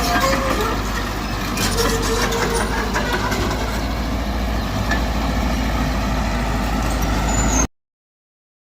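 Diesel engine of heavy earthmoving machinery running steadily under work, with a strong low rumble and a few faint squeaks over it; it cuts off suddenly near the end.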